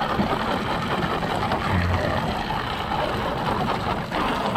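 Steady hiss of water spraying from a soft-wash hose line, with a short dip about four seconds in.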